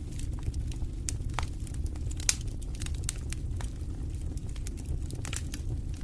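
Wood fire crackling in a fireplace: irregular sharp pops and snaps over a steady low rumble of the flames, with one louder snap a little past two seconds in.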